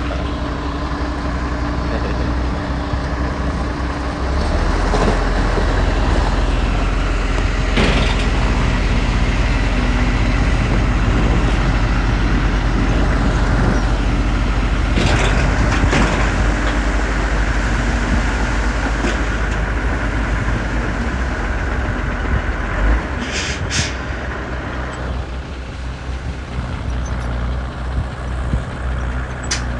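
Diesel engine of heavy earthmoving machinery running steadily, getting louder about four seconds in and easing off a little after about twenty-three seconds, with a few sharp knocks along the way.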